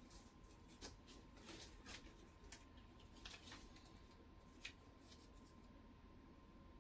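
Near silence, with a few faint, scattered light clicks and rustles from kitchen handling, mostly in the first five seconds, over a faint steady hum.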